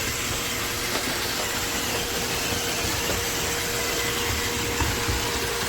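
iRobot Roomba Vac Essential (Q0120) robot vacuum running: a steady whir of its suction fan and brushes with a faint constant hum.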